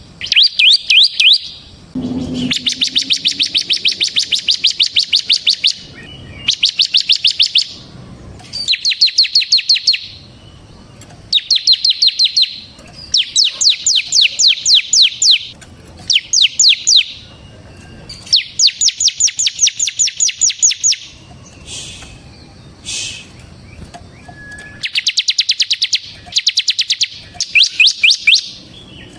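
Ciblek semi, a bar-winged prinia, singing its fast rattling 'ngebren' song: bursts of rapid, high, evenly spaced notes lasting one to three seconds each, repeated again and again with short pauses between them.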